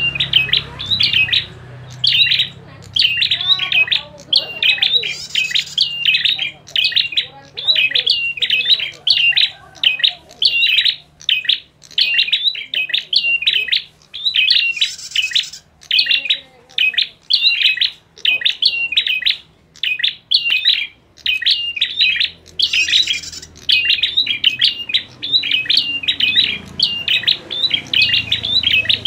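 Prinias calling excitedly in a fighting exchange: fast, sharp chirping phrases repeated over and over in runs with short gaps. Now and then there is a brief higher buzz.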